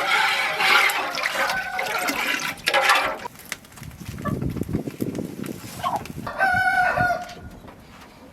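Water rushing for the first three seconds, then domestic chickens calling, with one loud call about six and a half seconds in.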